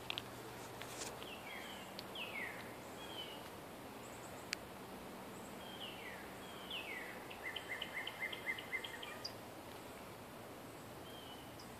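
A songbird calling: several short descending whistled notes, then about two-thirds of the way in a quick run of evenly repeated notes, over a faint steady background hiss. A couple of sharp clicks, one near the start and one about midway.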